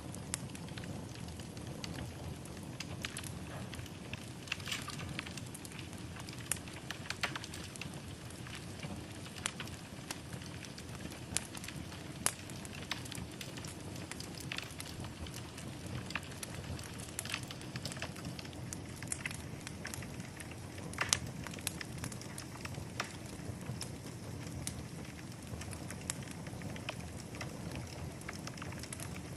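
Wood fire burning steadily in a fireplace, with irregular sharp crackles and pops over a low, even rumble of the flames.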